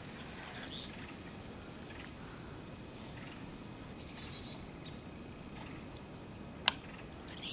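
Small birds chirping a few times, short high calls, over a quiet steady outdoor background. One sharp click about two-thirds of the way through.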